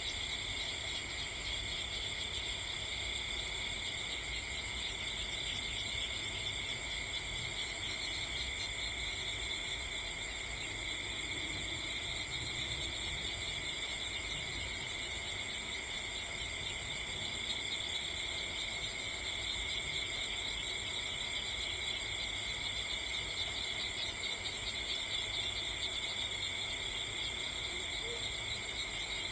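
Steady insect chorus of crickets, several high trilling pitches layered and held without a break.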